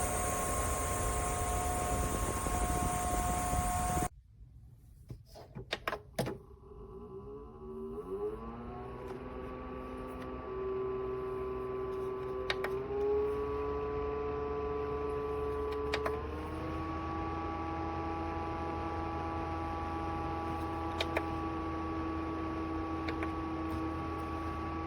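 Small electric fan motor of a portable evaporative air cooler. It starts after a few button clicks, whines up to speed and hums steadily, and its pitch shifts twice, each time just after a click, as the fan speed is changed. Before this, a louder steady hiss cuts off abruptly about four seconds in.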